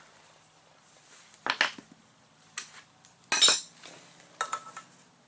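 A socket tapped on the valve spring caps of a 1293 Mini race engine's cylinder head, a handful of sharp metallic clinks at irregular intervals, the loudest about three and a half seconds in. The taps seat the collets on the newly fitted valve springs.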